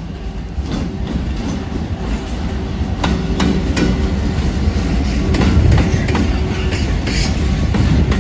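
A train running along the station tracks, its steady rumble growing louder, with sharp clicks from the wheels passing over rail joints starting about three seconds in.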